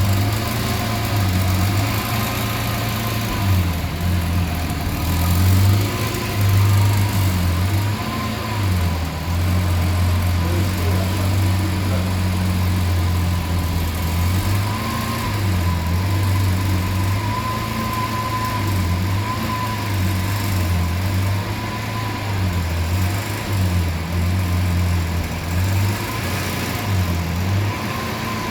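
Lamborghini Aventador SV Roadster's 6.5-litre V12 idling steadily after start-up, a deep even hum that wavers slightly in pitch.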